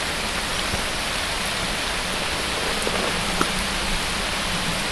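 Steady rain falling, a constant hiss with a few faint drop ticks.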